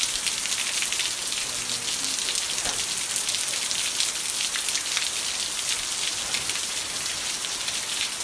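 Steady rain: a dense, even hiss with many separate drop ticks, holding at one level throughout.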